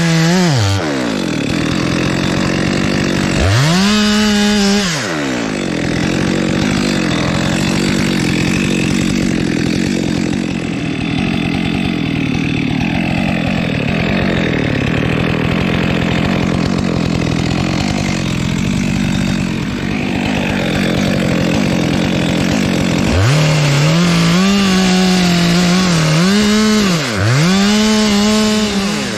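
Stihl chainsaw cutting through aini (wild jack) wood. It revs up and down once, then runs under steady load through a long cut with its pitch held lower, and near the end it is revved up and down several times in quick succession.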